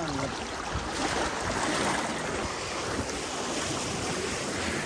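Steady rush of moving water in a natural swimming pool, a little louder about a second in.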